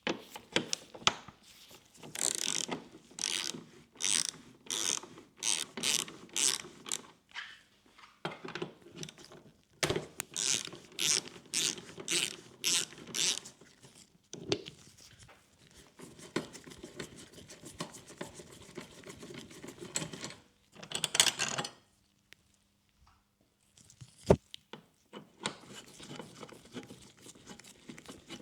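Hand tools working fasteners on a motorcycle's headlight assembly, making runs of quick clicking strokes about two a second, twice over. Softer scraping and handling follow, with one sharp knock near the end.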